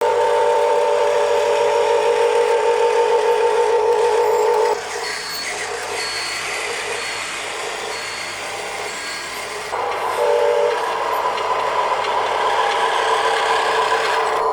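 Electric motors and metal gearing of a Huina 1582 RC dump truck whining steadily. The whine drops away about five seconds in, leaving a quieter grinding with a faint high beep repeating about every half second, then returns near the ten-second mark.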